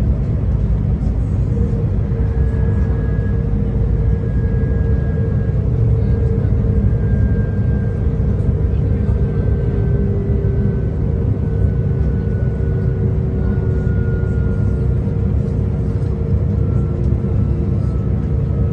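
Inside a V/Line VLocity diesel railcar running along the line: a steady, loud rumble from the wheels, rails and engine, with a thin whine that slowly falls in pitch.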